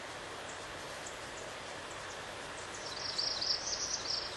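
Steady outdoor background hiss, with a bird's rapid high-pitched trill of quick chirps starting about three seconds in and lasting about a second and a half.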